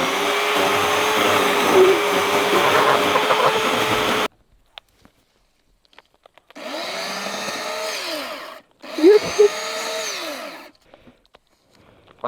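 Two-stroke chainsaw running at high revs, stopping abruptly about four seconds in. After a pause it is revved twice, its pitch rising and falling back each time.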